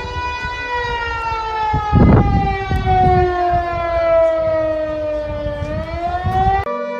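Outdoor tsunami warning siren wailing, its pitch falling slowly for several seconds and then rising again, with rumbling wind noise on the microphone and a loud gust about two seconds in. Near the end it cuts sharply to another siren holding a steady tone.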